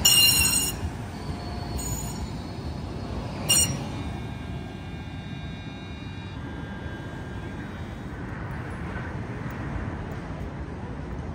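Green Line Type 8 Breda trolley car: three short ringing tones, the first and loudest right at the start, then a steady running rumble with a faint high whine setting in about four seconds in.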